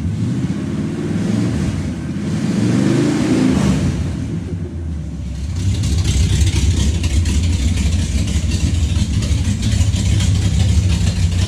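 Car engine running with its muffler cut off, so the exhaust is open: it revs up and falls back, then from about halfway through settles into a steady, loud idle.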